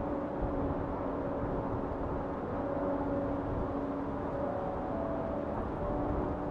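Steady rumble of a moving vehicle, road and engine noise, with faint tones that shift in pitch every second or so.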